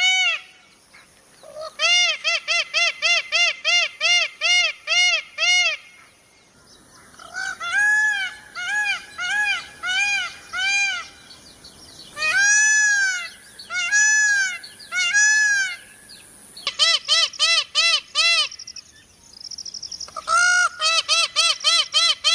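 Peacock calling in runs of repeated honking notes, each note rising and falling in pitch. Fast runs of about three notes a second open and close the stretch, with slower, longer notes in the middle.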